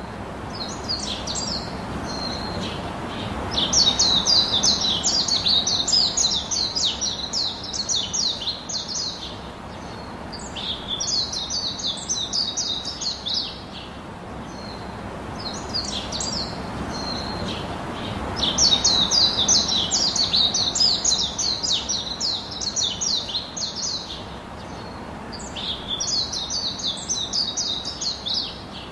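A songbird singing long phrases of rapid, repeated high chirps, each lasting several seconds with short pauses between, over a steady hiss.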